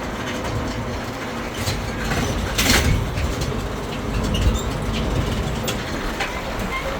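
Road train riding along: a steady low rumble of the engine and the trailing carriages, with a sharp rattle about two and a half seconds in and a few lighter clicks.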